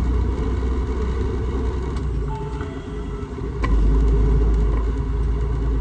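Semi truck's diesel engine and road rumble heard from inside the cab as it rolls slowly. The rumble dips about three seconds in, then comes back stronger after a single click.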